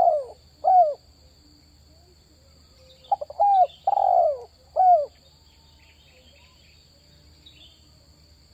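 Spotted dove (terkukur) cooing. The tail of one phrase ends about a second in, and a full phrase comes about three seconds in: a few quick stuttering notes, then three downslurred coos, the middle one the longest.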